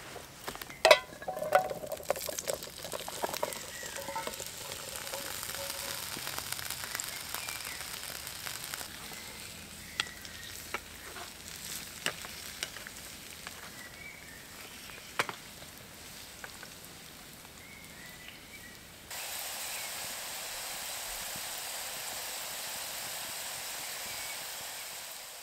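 Diced potatoes frying in oil in a frying pan over campfire embers, sizzling steadily, with a few sharp clinks and knocks in the first couple of seconds. A little past three-quarters of the way through, the sizzle jumps suddenly louder and more even, then fades right at the end.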